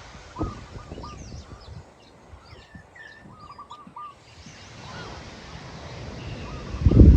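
Birds chirping and calling in the open, with low rumbling and scattered thumps underneath, and a loud low thump or rumble near the end.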